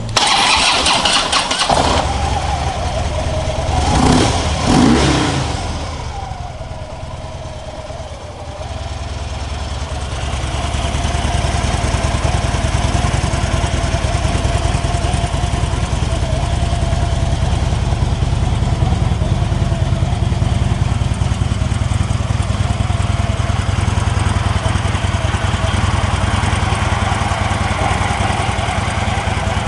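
Harley-Davidson Twin Cam 103 V-twin of a 2012 Electra Glide Ultra Limited starting up. It is revved twice a few seconds in, then settles into a steady idle.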